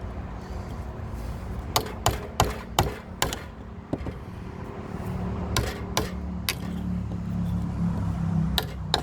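Hammer blows on timber: a quick run of five strikes, a pause, three more, then one last strike near the end. A steady low engine hum runs underneath.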